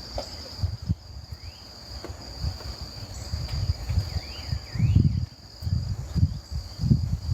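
A steady high insect trill with birds chirping now and then, while low gusts of wind rumble on the microphone, strongest in the second half.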